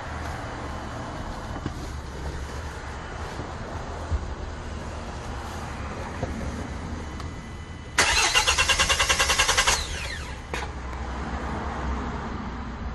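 Kia Bongo III diesel engine cranked on the starter for just under two seconds, about eight seconds in, with rapid even pulses, and failing to catch. It is a no-start that the mechanic puts down to injectors seized by water in the fuel. A steady low hum runs underneath.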